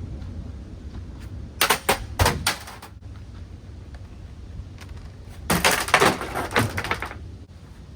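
Objects thrown into a Hunter Coastal Breeze Plus ceiling fan, knocking against its blades over a steady low hum. A few sharp hits come about two seconds in, then a quicker run of knocks around the sixth second.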